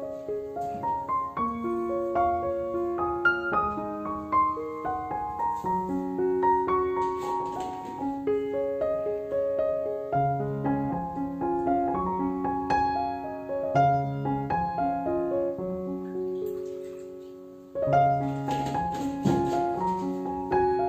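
Background piano music: a calm run of single notes over chords. It fades down about 18 seconds in, then the piano comes back in.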